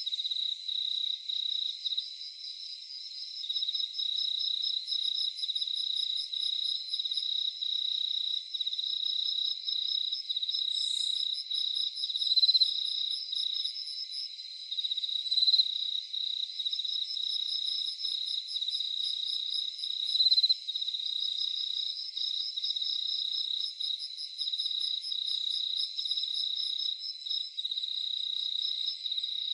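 A chorus of crickets chirping in steady, rapidly pulsing trills at two pitches, with a higher, fainter ticking insect call that comes and goes. The chirping swells louder briefly a few times.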